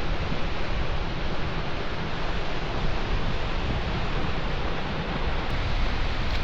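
Steady wind rushing over the microphone, a loud even rumble and hiss with no breaks.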